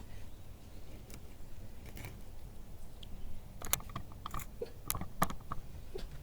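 Knife cutting slits into the sides of whole scaled bream: a series of short crunchy cuts and clicks, coming thickest about four to five seconds in.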